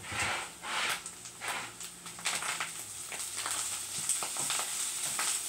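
Corned beef hash sizzling and crackling in hot oil in a nonstick frying pan, with a wooden spatula scraping and stirring through it. The oil is cooking down as the hash crisps.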